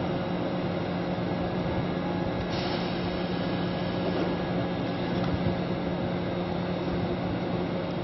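Steady hum of a parked Tobu 10000 series electric train's onboard equipment running, with a low constant tone throughout. A higher hiss joins about two and a half seconds in.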